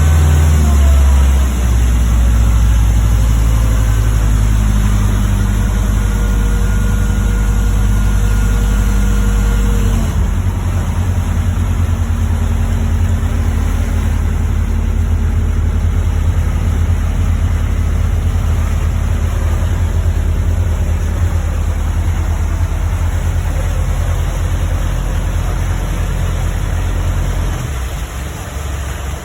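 Sea Ray 220 DA's turbo diesel engine running, its revs falling about a second in and its note shifting about ten seconds in, then easing off near the end.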